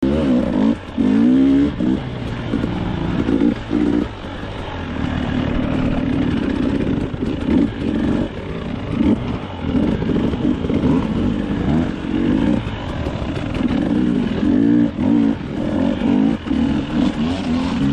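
Dirt bike engine revving hard in repeated bursts, its pitch rising and falling as the throttle is opened and shut, with a few short drops off the throttle. It is working under heavy load, the bike being ridden out of a bog.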